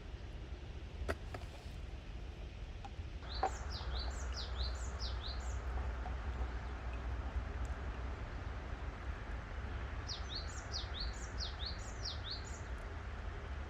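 A songbird singing two phrases, each a quick run of about eight high, downward-sweeping notes lasting about two seconds, the first a few seconds in and the second near the end, over a steady low rumble. A couple of sharp clicks sound in the first few seconds.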